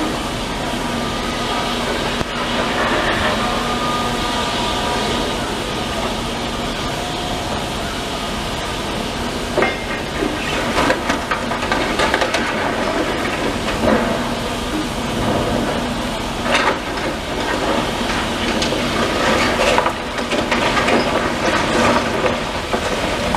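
Heavy demolition machinery at work. A machine runs steadily with a faint whine in the first half, then from about ten seconds in there are repeated knocks and crunches, typical of rubble and debris being broken and shifted.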